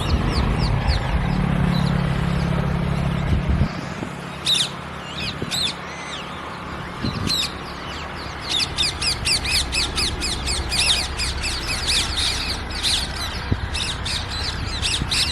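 Parrots calling with short, sharp, high squawks that sweep downward in pitch. A few come scattered at first, then they come thick and fast from about halfway through. Under the first few seconds a low steady drone runs and then stops.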